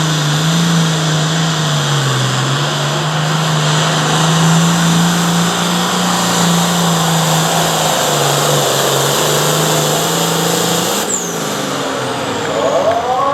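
Competition pulling tractor's engine held at high revs under load, making a pull down the track. The engine note holds steady and drops away about eleven seconds in.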